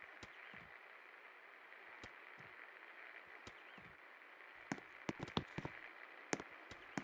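56-inch Click Glamour ceiling fan running, a faint steady whoosh of moving air with light clicks recurring every second or two. A quick run of sharper clicks comes about two-thirds of the way through.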